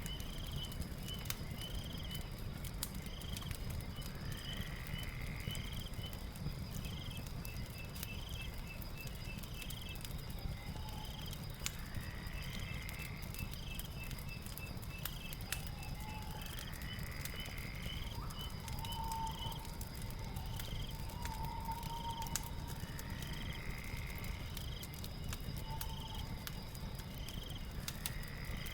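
Night ambience: a steady high insect drone, short chirps repeating about once a second, and a rising call every few seconds, over the scattered crackle of a wood fire.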